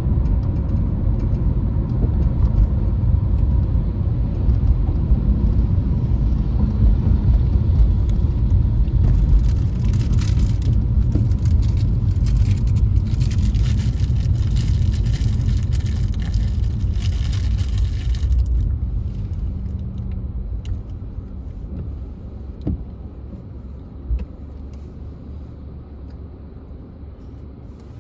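A car driving in a rainstorm, with a steady low rumble. Hissing, likely tyres on wet road or heavier rain, joins in about a third of the way through and stops about two-thirds in. The sound then grows quieter, with a couple of short knocks.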